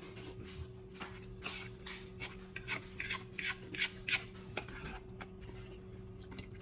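A person eating ramen noodles: a quick run of short, noisy eating and utensil sounds, about three to four a second, that thins out near the end.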